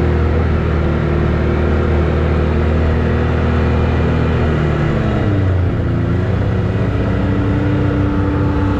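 Side-by-side UTV engine running steadily under way. Its pitch drops about five seconds in and then holds at the lower note.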